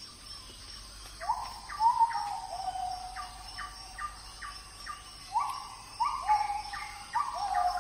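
A bird calling in two runs of short repeated notes, a few a second, each sliding up at the start and then holding; the first run is about a second in, the second near the end.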